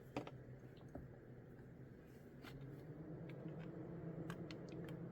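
Faint, sparse light clicks of small plastic model-kit parts being handled and glued into place, over a steady low hum.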